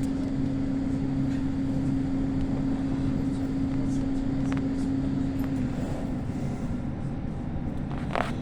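Passenger train running on the track, heard from inside the carriage: a steady rumble with a low hum that stops about five and a half seconds in, and a few faint clicks.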